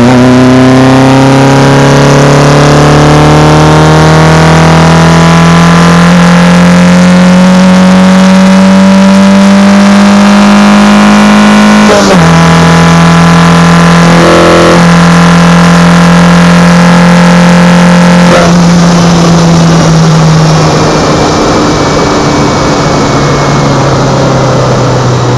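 Opel Kadett GS 16-valve four-cylinder engine heard at its twin Solex C40 ADDHE side-draft carburetors, pulling hard under acceleration with the revs climbing steadily. About twelve seconds in the pitch drops suddenly at an upshift, then climbs again in the next gear. In the last few seconds the engine eases off and the revs fall.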